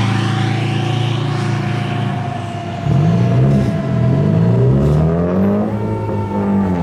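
Fire truck engine revving as it pulls away, its pitch rising and falling through the gears. A siren tone slides slowly down in pitch during the first half.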